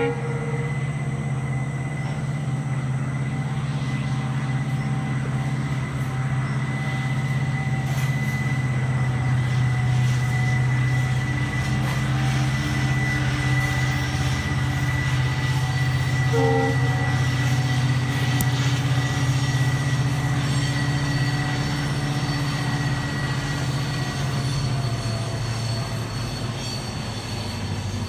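Rajdhani Express passenger train running: a loud, steady low drone with a thin steady tone above it. Its horn gives one short toot a little over halfway through, and the drone eases off near the end.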